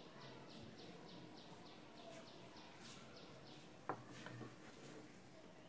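Near silence with a faint, rapid run of high bird chirps, about four a second, that stops about three and a half seconds in. A single short knock comes just before the four-second mark.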